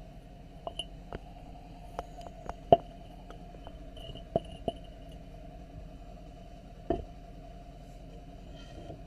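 Irregular light clicks and taps from hands working the threads tied to a nail on a wooden board, about ten in all, the sharpest nearly three seconds in, over a steady low hum.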